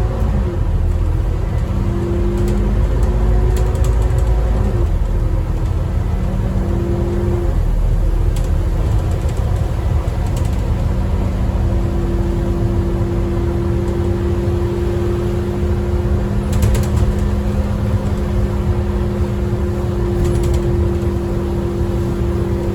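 Inside a 2009 Scania N230UD Optare Olympus double-decker bus on the move, its five-cylinder diesel engine running under a deep rumble. The engine note changes pitch several times in the first few seconds, then settles into a steady drone, with a few brief rattles.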